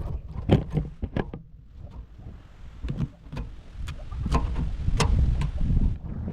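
A fish knife clicking and knocking against bone and the cutting surface as a snapper is filleted, with a scatter of sharp ticks. Wind buffets the microphone with a low rumble, loudest in the second half.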